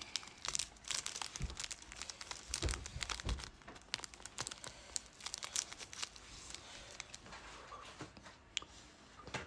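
Close-up eating sounds of Buldak spicy chicken noodles: irregular wet clicks, smacks and crinkly rustles of chewing and handling the food.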